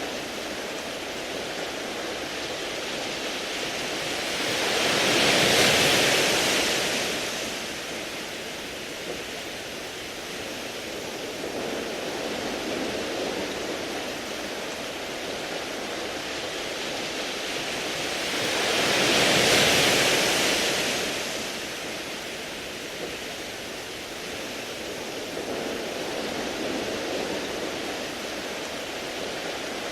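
Sea waves washing over a beach of smooth round pebbles, a steady hiss of surf swelling and ebbing. Two bigger waves surge in, one about 5 seconds in and one about 19 seconds in, with smaller swells between them.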